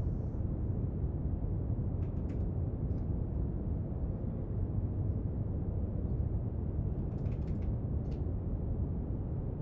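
Steady brown noise, deep and even, with a few faint short clicks and taps from desk work on top, around two seconds in and in a quick cluster near seven seconds.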